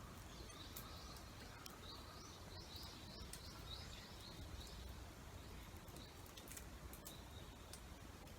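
Faint bird song: a short run of quick, repeated high notes in the first half, with a few faint sharp clicks scattered through and a low steady background rumble.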